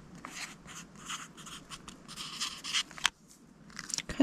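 A coloured pen writing on a paper task card in a series of short scratchy strokes, with a sharp click about three seconds in.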